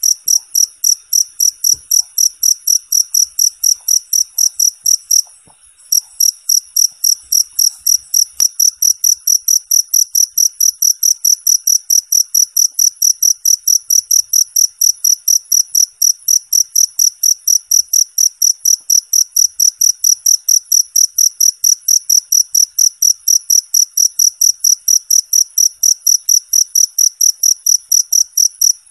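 Cricket chirping loudly and steadily in a fast, even pulse of about three to four chirps a second, high-pitched, with a brief pause about five seconds in.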